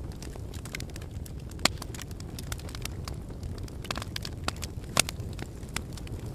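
Wood fire burning in a fireplace: a steady low rumble of flames with irregular crackles and sharp pops, the loudest pops about one and a half seconds in and again about five seconds in.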